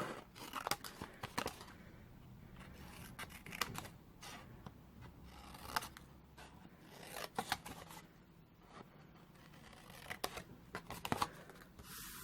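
Scissors snipping through scored cardstock, a few short cuts at a time with pauses between, cutting away squares and notching tabs.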